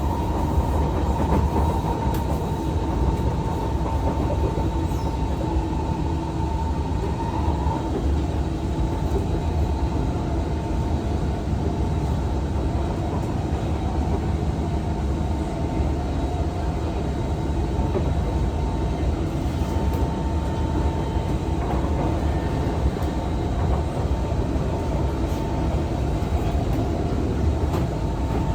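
SMRT C151 metro train running between stations, heard from inside the car: a steady rumble of wheels and running gear with a faint steady whine.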